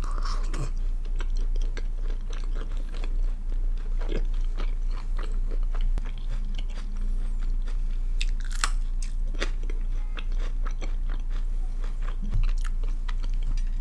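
A man chewing food close to the microphone, with many small wet clicks and crisp crunches. A louder crunch comes about eight and a half seconds in.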